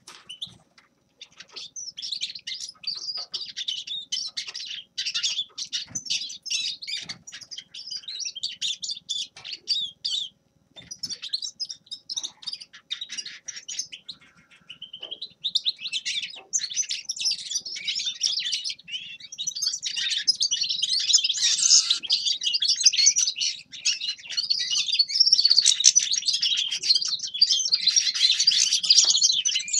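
Grey-crowned goldfinch singing a rapid, high twittering song in long phrases with short breaks, growing louder and almost unbroken in the second half.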